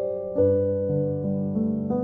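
Slow instrumental piano music, sustained notes with a new chord or melody note about every half second.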